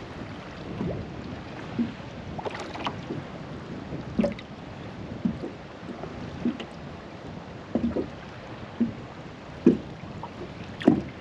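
Small waves slapping against the hull of a drifting fishing boat, short irregular knocks about once a second over a steady rush of wind.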